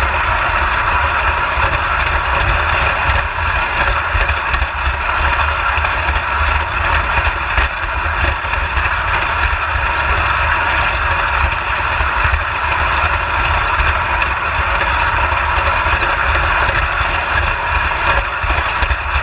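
Prewar Lionel Standard gauge toy train running steadily on its track: a continuous whir of motor and gearing with a low rumble from the wheels rolling on the rails.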